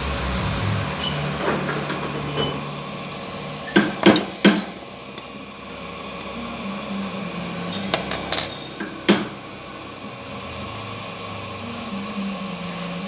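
Sharp metal knocks and clinks, as of tools or parts struck or set down on metal: three close together a few seconds in, and three more about halfway through. A low steady hum runs beneath them.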